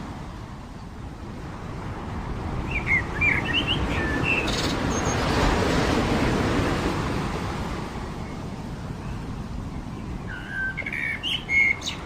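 Surf washing on a beach, swelling and then easing off, with small birds chirping in short phrases about three seconds in and again near the end.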